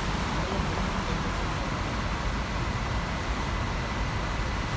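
Steady engine and road noise of a city tour bus on the move, heard from aboard.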